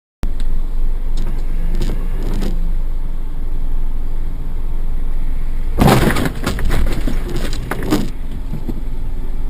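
Dashcam recording of a vehicle driving: a steady low rumble of engine and road noise, with a burst of loud clattering knocks from about six to eight seconds in.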